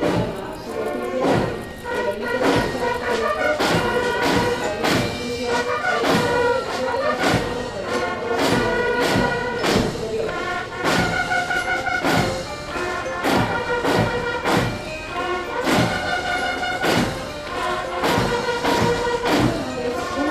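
Military band playing a march: brass over a steady drum beat.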